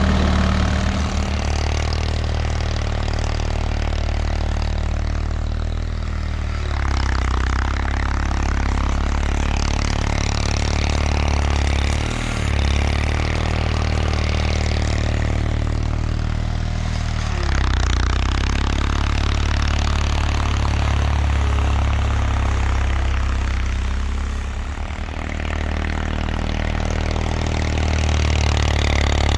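1979 Bolens HT-23's 23 hp opposed-twin Kohler K582 engine running steadily. Its loudness dips briefly about twelve seconds in and again about twenty-five seconds in.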